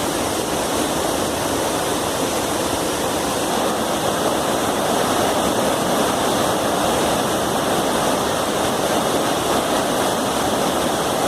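Waterfall's water rushing steadily and loudly, an even, unbroken noise.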